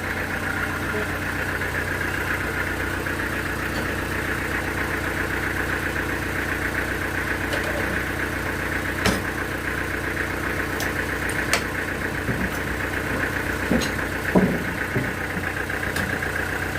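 Band sawmill running steadily with an engine hum, a few sharp clicks or knocks scattered through it.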